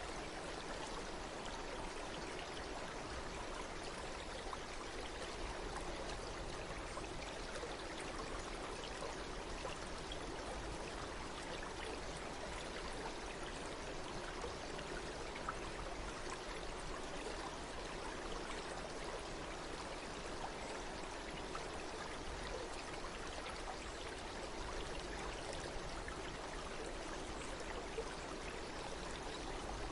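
Stream of water flowing steadily, an even, continuous rush with no breaks.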